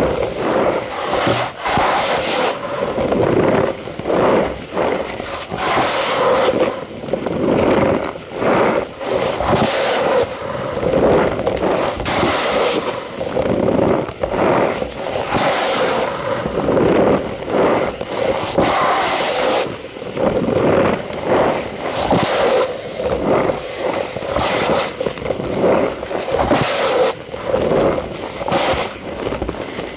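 Cornstarch powder being squeezed and pressed, giving a continuous squeaky crunching made of many quick, irregular strokes.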